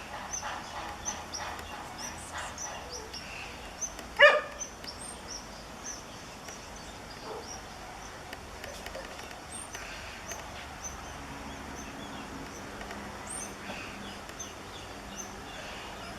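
Small birds calling in woodland: short high chirps, thickest in the first few seconds, with scattered thin rising notes later. About four seconds in comes one loud, sudden animal call.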